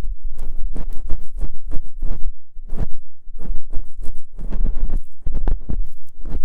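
ASMR ear cleaning: an ear pick scraping and rubbing close against a microphone's ear. Irregular scratchy strokes come a few times a second with brief pauses, over a deep rumble from contact with the microphone.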